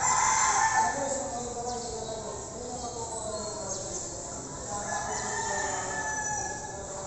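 Two drawn-out bird calls. The first and loudest comes right at the start and lasts about a second and a half. The second, fainter one comes about five seconds in.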